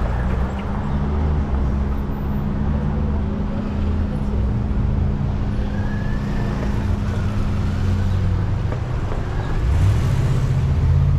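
Street traffic: a motor vehicle's engine running close by with a steady low hum, which drops away about eight seconds in before another engine hum rises around ten seconds in.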